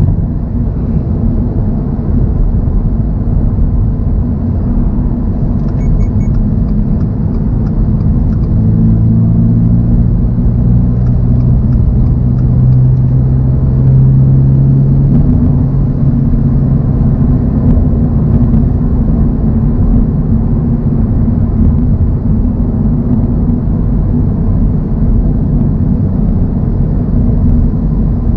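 2024 Toyota GR86's 2.4-litre flat-four engine running under way, with steady tyre and road rumble. A steady engine tone grows stronger for several seconds in the middle.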